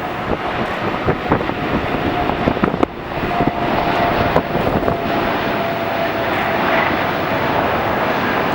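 Jet airliner's engines: a loud rushing roar, with a steady engine whine that comes in about three seconds in and sinks slowly in pitch as the plane goes by.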